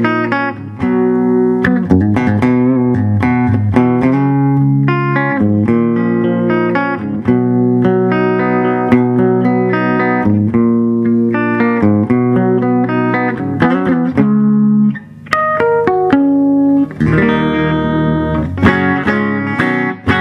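1969 Gibson L5 CES archtop electric guitar played through a Fender Vibrolux Reverb amp: a run of strummed chords and chord-melody phrases that ring out, broken by two short pauses about three-quarters of the way through.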